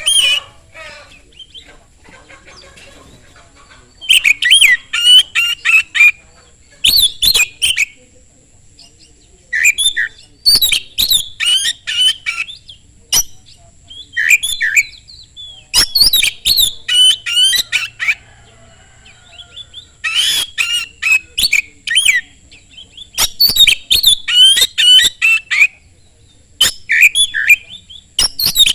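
Oriental magpie-robin singing loudly in bursts of rapid, varied whistled notes mixed with sharp clicks, a new phrase every second or two with short pauses between.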